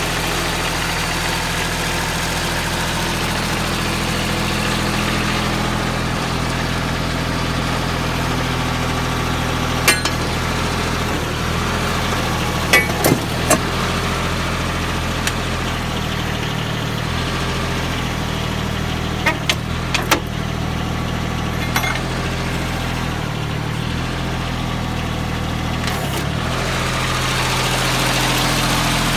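Kubota backhoe's diesel engine running steadily at idle, with a few sharp knocks scattered through the middle and the revs rising slightly near the end.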